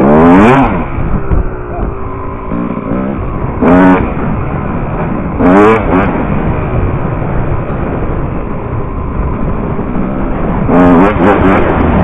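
Dirt bike engine revving hard in four short bursts, each a quick rising whine, with the engine running lower between them, as the rider throttles up for wheelies.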